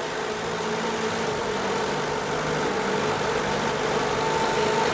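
A car engine idling steadily, slowly getting a little louder, with the clutch not yet let out. It is the running car's engine, about to drive a second engine that has no compression through coupled axle shafts.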